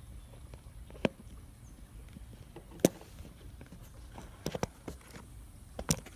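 A few sharp, irregular knocks and clicks, the loudest about three seconds in and a small cluster near the end, over a low steady outdoor rumble.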